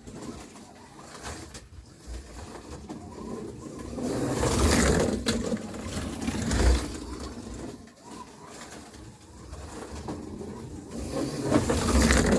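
NSR Corvette slot car running laps on the track, its small electric motor whirring with tyre and guide noise, swelling twice as the car comes past close by.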